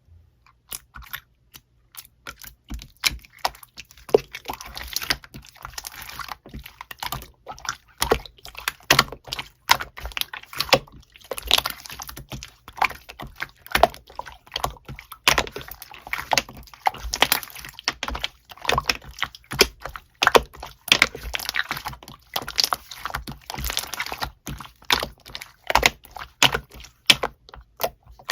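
Slime being squished and pressed by hand, giving a fast, irregular run of sticky clicks and small pops.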